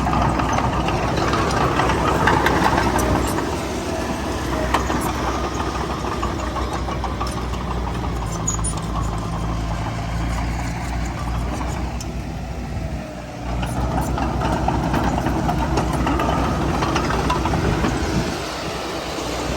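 Diesel engine of heavy earthmoving machinery running steadily, with scattered knocks and clanks. The engine drops off briefly about two-thirds of the way through, then picks up again.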